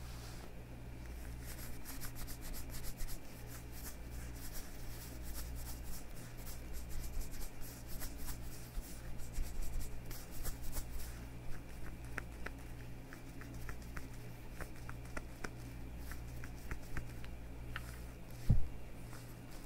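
Leather gloves on the hands rubbed and flexed: dense, fine crackling rustle for about the first half, then sparser sharp creaks and ticks. A short dull thump near the end is the loudest sound.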